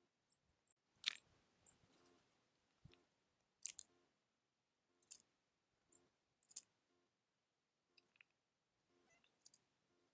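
Faint, irregular clicks and taps over near silence, about a dozen of them, the loudest about a second in.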